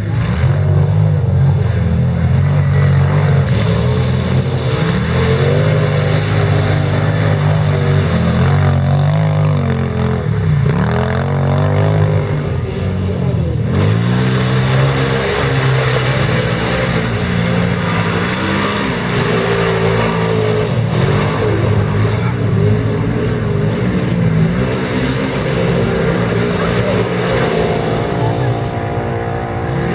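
Quad bike (ATV) engines racing, several at once, revving up and down over and over as they accelerate and ease off.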